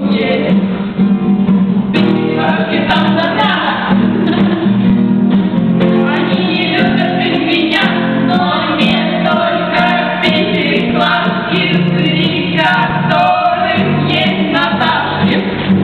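Several voices singing a song together, with guitar accompaniment.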